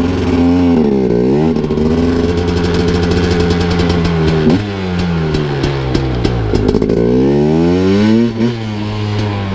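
KTM Freeride 250 R's two-stroke single-cylinder engine running, its pitch rising and falling several times and holding steady for a few seconds in the middle.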